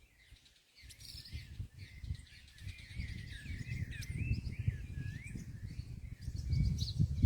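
Small songbirds chirping and calling with quick up-and-down gliding notes, over a low rumble on the microphone that grows louder through the second half.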